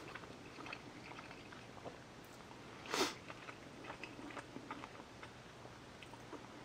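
A person chewing a mouthful of soft baked fish with the mouth closed, with faint small wet clicks, and one short, louder noise about three seconds in.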